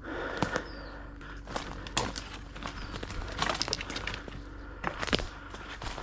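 Footsteps crunching through dry brush and leaf litter, an uneven run of steps and small snaps, with faint bird chirps a few times.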